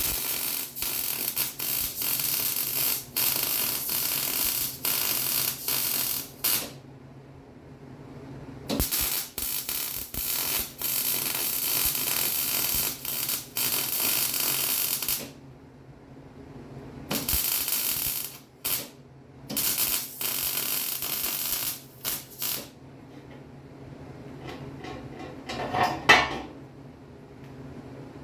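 Electric welder laying beads on the steel frame cross member of a 1946 Willys Jeep. The crackling arc runs in stretches of a few seconds with short pauses between them, and there is a brief sharper sound near the end.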